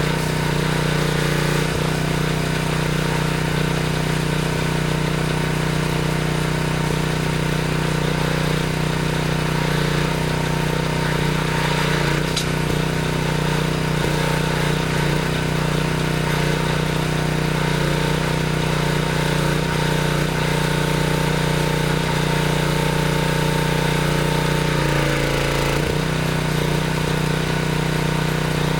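Craftsman pressure washer's small gas engine running steadily under a steady hiss. About 25 seconds in, the engine note dips briefly in pitch and then recovers.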